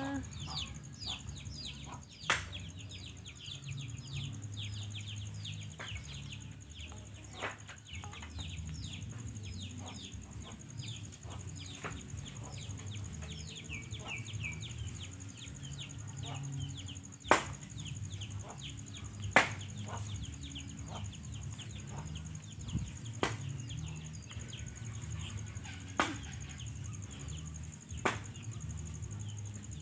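Birds chirping: many short, high, falling chirps in quick succession, thinning out after about halfway, over a steady high whine. A few sharp clicks stand out.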